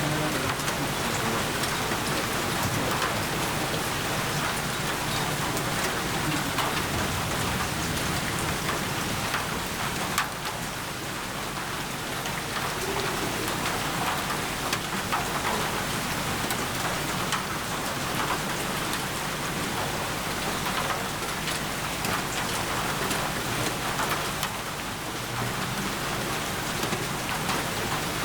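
Steady rain falling: an even wash of noise with many separate drops tapping on a surface.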